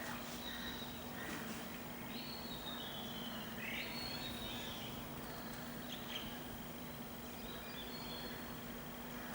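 Birds calling with short, high notes, a run of them between about two and six seconds in, over steady background noise and a faint low hum.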